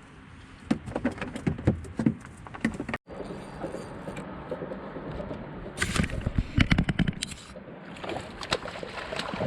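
Knocks, clicks and scrapes of gear being handled in a small fishing boat, with a louder cluster of thumps about six to seven and a half seconds in.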